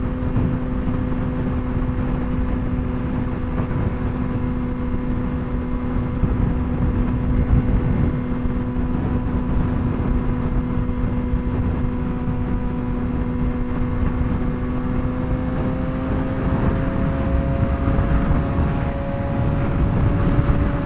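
2007 Suzuki GSX-R600 inline-four with a straight-pipe exhaust cruising at highway speed, its engine note holding steady. About fifteen seconds in, the pitch rises gently as the bike speeds up.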